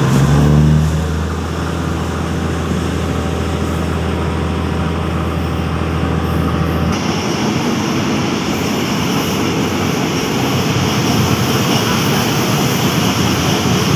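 Passenger train running, heard from inside the carriage: a continuous running noise of wheels on rail and engine. A brief rising note sounds at the very start, and about seven seconds in the low drone drops away, leaving a hissier running sound.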